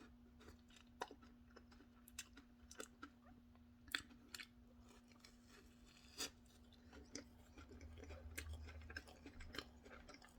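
Faint chewing of Peeps marshmallow candy: many small, irregular mouth clicks and smacks, over a faint steady hum.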